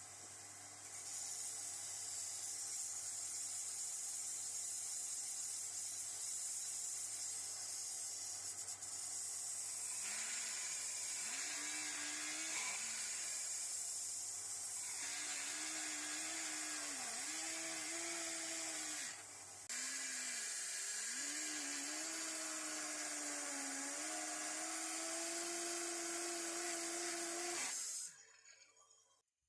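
Belt sander running while a metal part of a Stillson pipe wrench is sanded on it. From about a third of the way in, its motor note dips and recovers again and again as the work is pressed onto the belt, with a brief break about two-thirds through, and it shuts off shortly before the end.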